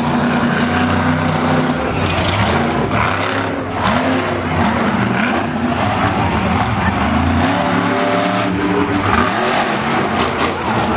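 Loud racing engines revving hard, their pitch rising and falling again and again, over tyre noise.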